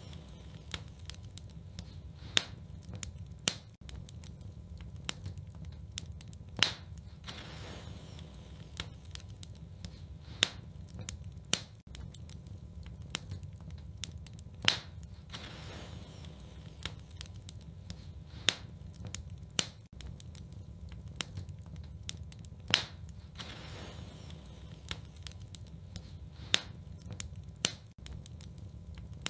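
Wood fire burning in a fireplace: a steady low rumble with irregular crackles and sharp pops, a louder pop about every four seconds.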